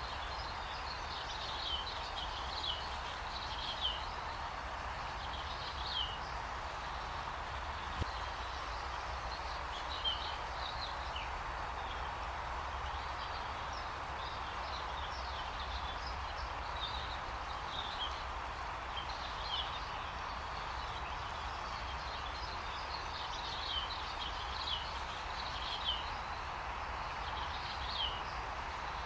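Rainforest ambience: a steady hiss under many short, high bird chirps that come every second or two.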